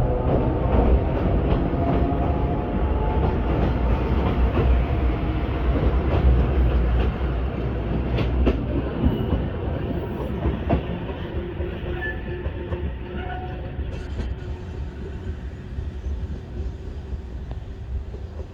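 Sangi Railway Hokusei Line electric train bound for Ageki pulling away, its wheels clacking over the rail joints, the rumble slowly fading as it leaves.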